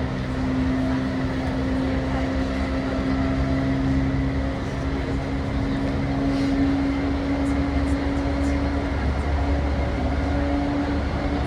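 Running sound heard inside the motor car of a JR East E235-1000 series EMU, which carries Mitsubishi full-SiC MOSFET VVVF traction inverters, at speed between stations: a steady low rumble of wheels on rail with a steady hum from the traction motors. A lower hum fades about halfway through while a higher one holds on.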